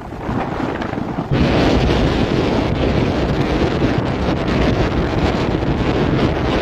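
Strong wind of a snowstorm buffeting the microphone: a loud, even rush with low rumbling gusts that steps up sharply a little over a second in.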